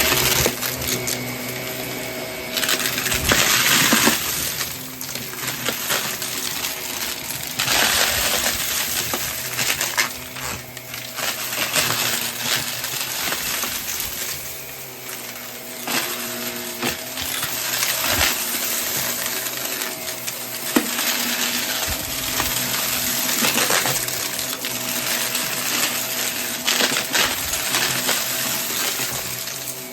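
Vacuum cleaner running while it sucks up a heavy debris mix, the pieces rattling and clinking up through the nozzle and hose in irregular bursts.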